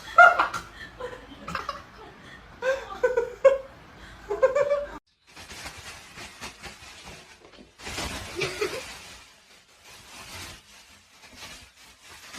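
A person laughing in short bursts, which cuts off abruptly about five seconds in, followed by fainter, noisier sounds.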